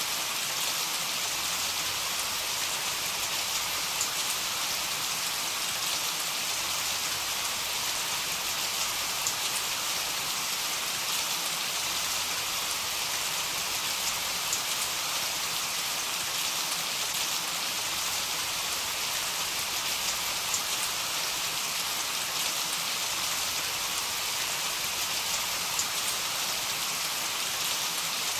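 Heavy rain falling steadily, an even hiss with scattered sharper drop ticks; no thunder is heard.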